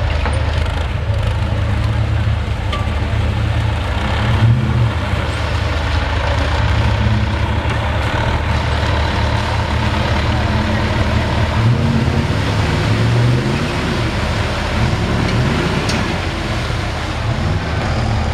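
Big Dodge mud truck's engine running loud, revving up and down again and again through the whole stretch.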